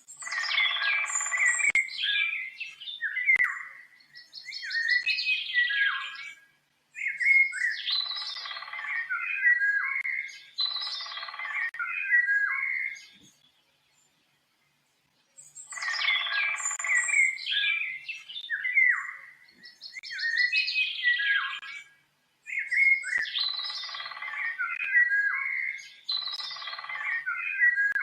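A songbird singing in bouts of rich, varied warbling and chirping phrases, each lasting a second or two with short pauses between. The same run of song plays twice, broken by a moment of dead silence about halfway through, as in a looped sound-effect recording.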